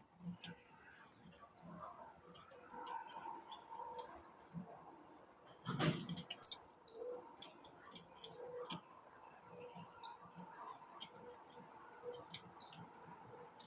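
Blue-crowned hanging parrots (serindit) giving short, high, thin chirps one by one throughout, the loudest about six and a half seconds in. A brief rustle comes just before that loud chirp.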